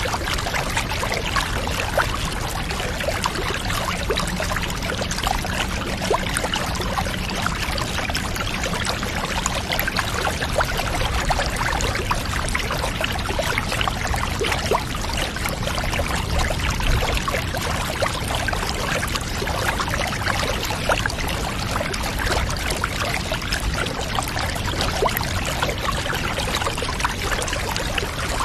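Water pouring and trickling steadily into a bath, a dense patter of fine splashes without pause.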